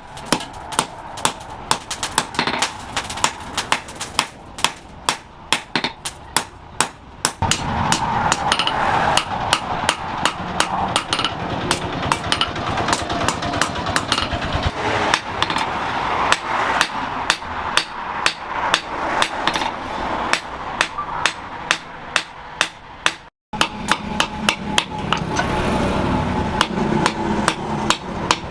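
Blacksmith's hammer striking hot steel on an anvil in a steady run of blows, about three a second. From about seven seconds in a steady rushing noise runs under the blows, and the sound breaks off for an instant near the end before the hammering resumes.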